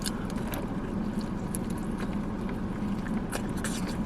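Eating sounds, chewing with a few short clicks of food and packaging being handled, over a steady low hum from the car.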